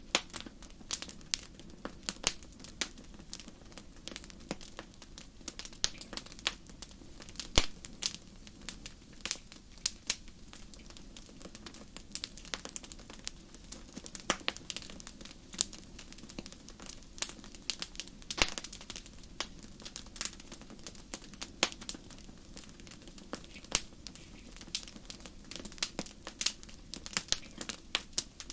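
Fireplace fire crackling: irregular sharp pops and snaps, several a second and uneven in loudness, over a steady low hiss.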